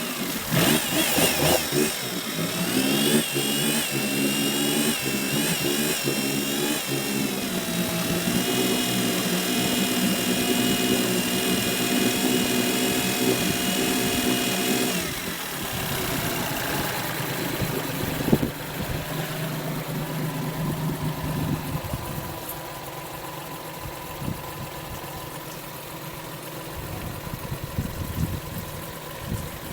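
Johnson 40 hp four-stroke EFI outboard (Suzuki-built) revved up: the revs rise and waver for a few seconds, hold steady, then drop back to a steady idle about halfway through. A single sharp click comes a few seconds after the drop.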